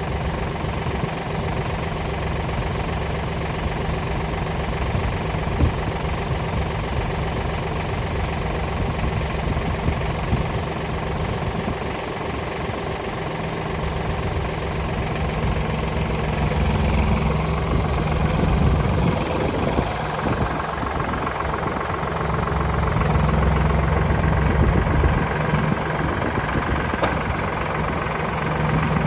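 Kioti DK65 tractor's diesel engine idling steadily, its sound growing fuller for several seconds in the second half, with an occasional click.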